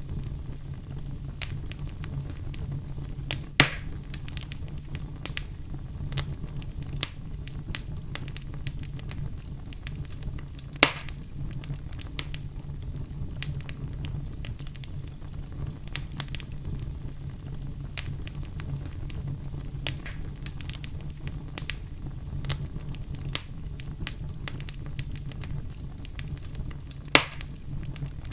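Wood fire crackling in a fireplace: a steady run of small crackles over a low, steady rumble, with three louder sharp pops, about 3.5, 11 and 27 seconds in.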